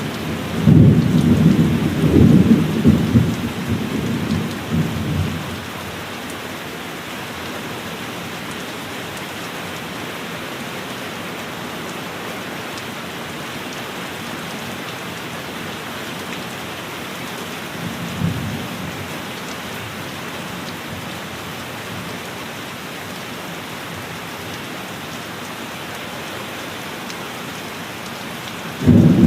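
Thunderstorm: steady heavy rain, with a rolling thunder rumble over the first few seconds, a brief faint rumble about two-thirds of the way through, and another rumble breaking in at the very end.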